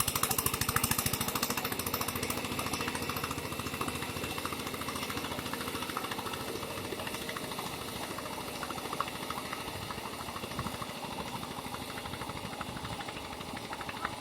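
Eicher 242 tractor's diesel engine running with a fast, even knocking beat, growing somewhat quieter over the first few seconds and then holding steady.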